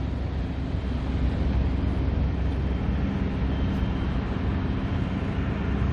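Steady low hum of a vehicle engine running, with an even background rush.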